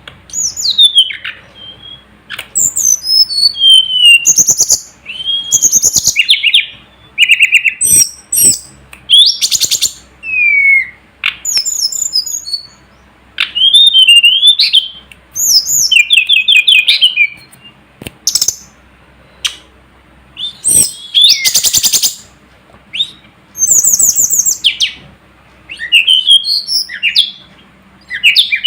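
Tledekan gunung (sulingan gunung) songbird singing: a run of short, varied phrases of clear whistles, falling slurs and fast trills, each about a second long with brief pauses between them.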